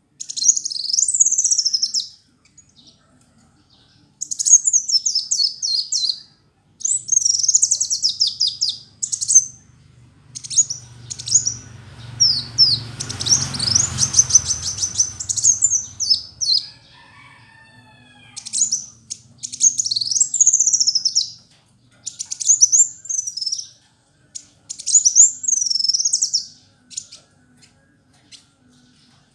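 A kolibri wulung sunbird singing in high, rapid twittering phrases of one to two seconds each, repeated with short pauses. A low rumble runs under the song near the middle.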